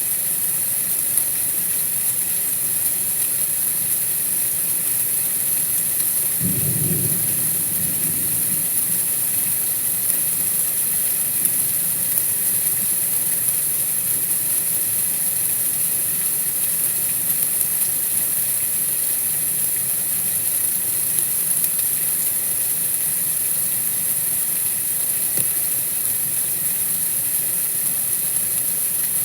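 Steady white-noise hiss, brightest in a high band, with a brief low rumble about six seconds in.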